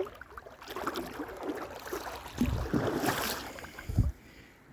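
Boots stepping through a shallow creek: irregular water splashes, with heavier thuds about halfway and near the end.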